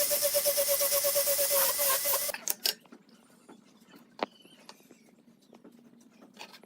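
A power tool running with a loud hiss and a steady pulsing hum, cut off abruptly a little over two seconds in, followed by light clicks and taps of handling wood and tools.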